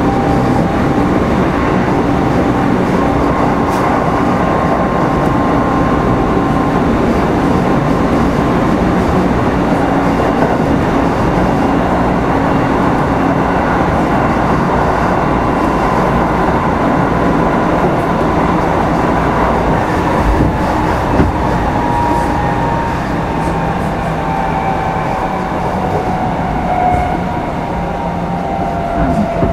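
Kintetsu 5211 series electric train running, heard from its motor car Mo 5212: a steady rumble of wheels on rail with a faint motor whine, which falls in pitch near the end.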